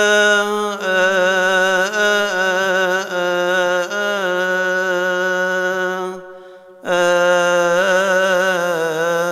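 Coptic Orthodox hymn chanted solo by a male deacon: long, drawn-out melismatic phrases on single syllables with wavering ornaments. He breaks for a breath about six seconds in, then resumes.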